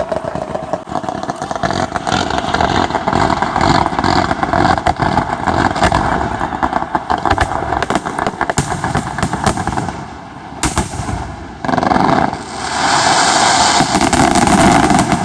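Fireworks going off in a dense barrage of rapid bangs and crackling. It eases off briefly about ten seconds in, then builds again.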